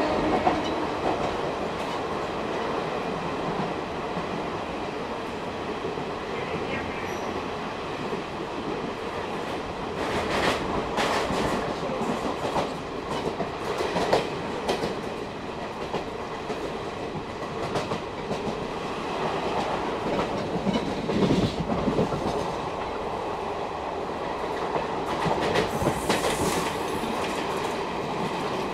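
Indian Railways ICF passenger coach running at speed: a steady rumble of wheels on the track with clickety-clack over rail joints, and several louder clattering passages as the bogies run over joints or points.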